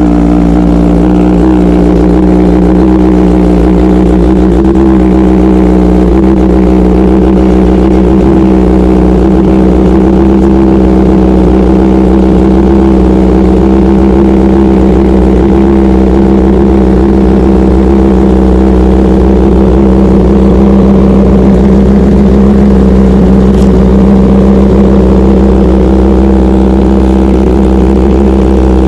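Kawasaki ZX-10R's inline-four with an SC Project aftermarket exhaust idling steadily and loudly just after a cold start.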